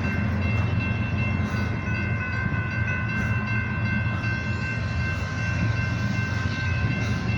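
Diesel freight locomotive approaching under heavy load, its engine giving a steady deep rumble as it pulls hard. Faint steady high tones sound over it.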